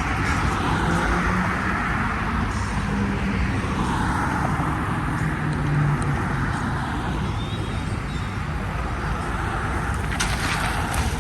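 Cars driving past with engines running and tyre noise, swelling and fading several times as they go by.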